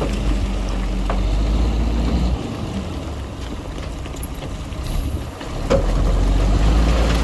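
Heavy diesel earthmoving machine running, a deep engine rumble that eases off about two and a half seconds in and rises again near the end, with one sharp knock just before it rises.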